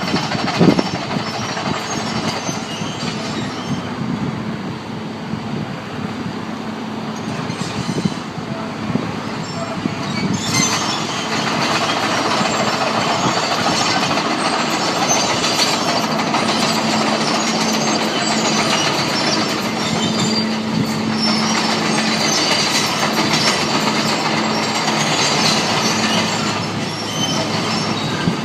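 Tractor moving across a paved street, its engine running under a steady drone with continuous metallic clanking and squealing as it tears up the pavement; louder from about ten seconds in.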